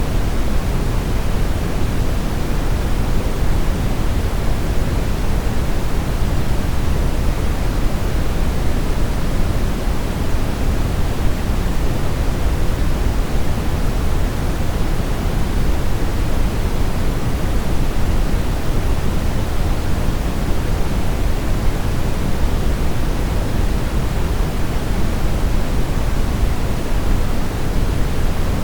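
Steady brown noise: an even, deep rushing hiss with most of its weight low down, unchanging throughout.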